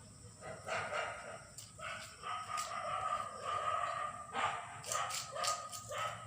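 Small dogs yipping and barking in short, repeated calls, busier in the second half, with a steady high whine running under them from about two seconds in.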